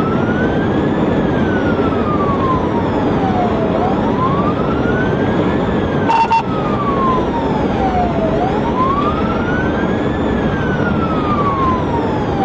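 Police siren wailing in a slow rise and fall, about one cycle every four and a half seconds, over a steady rush of road and engine noise during a high-speed pursuit. A brief click about halfway through.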